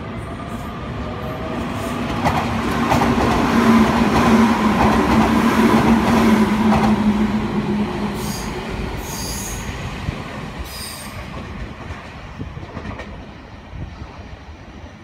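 Keio Inokashira Line electric commuter train passing close by. Its motor whine and wheel noise swell to a peak about four to six seconds in, then fade as it runs off. A few short, high wheel squeals come between about eight and eleven seconds in.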